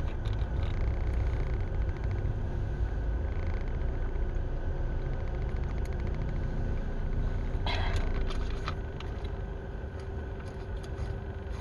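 Steady low rumble of a car idling, heard from inside the cabin, with a faint constant hum over it. A brief noisy rustle about eight seconds in.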